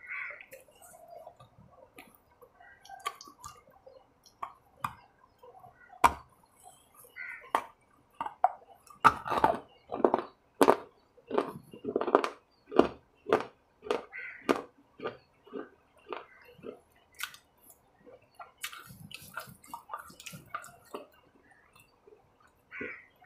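Close-up chewing of a snack bar: a run of short crunchy bites, about two a second, strongest through the middle.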